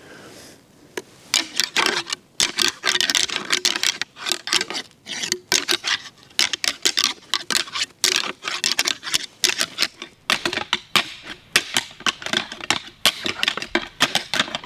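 A pair of rattling antlers clashed and ground together in rapid, irregular clacks, starting about a second in and going on to the end: rattling to imitate two whitetail bucks fighting during the rut.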